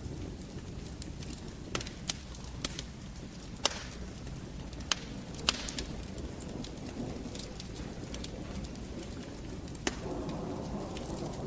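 Wood fire burning in a fireplace: a steady low rumble of flames with irregular sharp crackles and pops, a few of them loud. About ten seconds in, the flame hiss grows a little fuller and louder.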